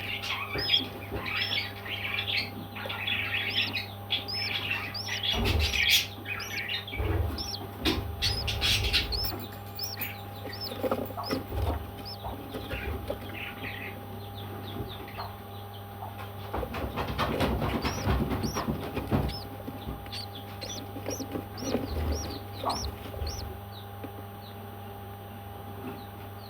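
Parrots chirping: many quick, short chirps come thick and fast, then thin out after the middle. Noisy rustling bursts, like wings or feathers moving, come twice, with a steady low hum underneath.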